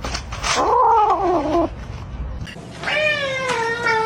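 A cat yowling: a short call that rises and then falls in pitch, then, after a short pause, a long drawn-out yowl that slowly falls in pitch.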